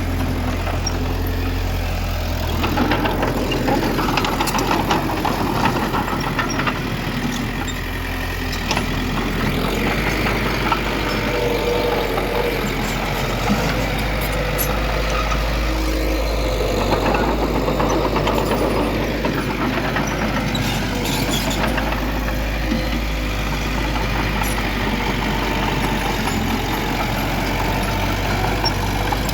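Diesel engines of heavy earthmoving machinery, a bulldozer and dump trucks, running steadily at work, with scattered short knocks over the low engine hum.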